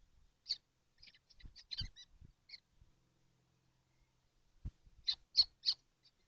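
Young kestrels in a nest box giving short, high calls: a scattered run of them in the first two seconds, then three loud calls about a third of a second apart near the end. A few low knocks mark movement in the box.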